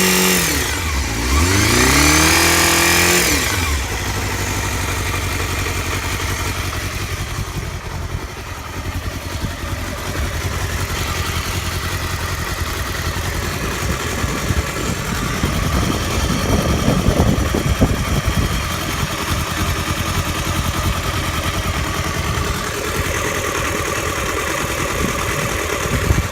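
Honda Hornet 250's inline-four engine revved up and back down once near the start, then idling steadily. It carries a strange noise that the owner cannot identify.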